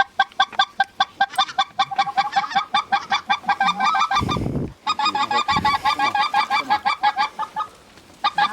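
Goose call blown in a fast, even run of short clucks and honks, about eight a second, calling to geese overhead. The run breaks briefly with a low rumble about four seconds in, and pauses again shortly before the end.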